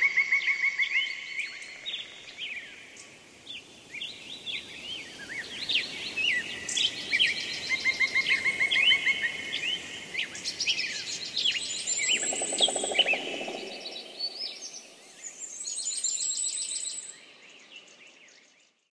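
Several birds chirping and trilling, with quick rising and falling notes overlapping. A lower, pulsed call comes in about twelve seconds in, and the birdsong fades out at the end.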